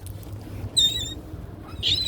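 Two short, high-pitched bird calls about a second apart, over a low steady rumble.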